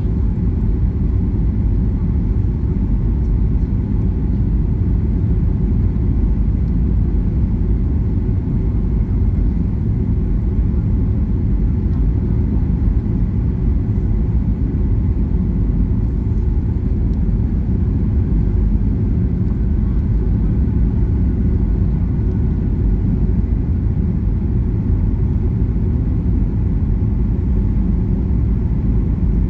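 Airliner cabin noise in flight: a steady low rumble of engines and airflow that does not change.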